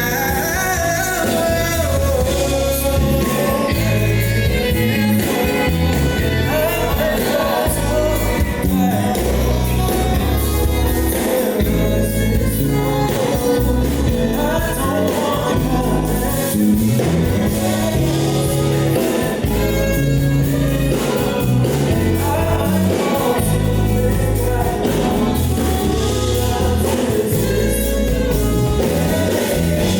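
Live R&B band playing with a singer, over a steady bass line.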